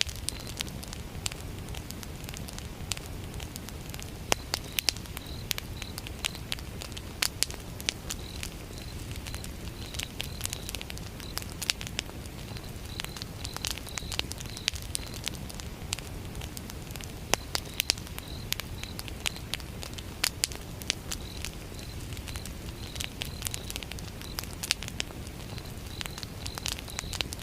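Campfire burning, with irregular sharp crackles and pops of burning wood over a steady low rumble of the flames.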